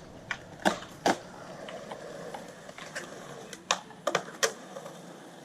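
Skateboards at a skate park: a run of sharp, irregular clacks as boards hit and land on concrete, over the rolling of their wheels.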